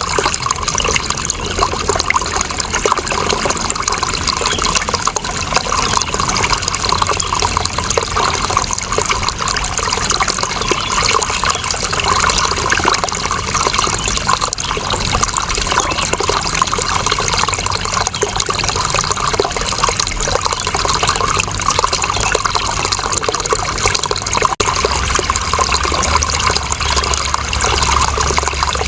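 Running water flowing steadily with no change. There is one momentary dropout about 25 seconds in.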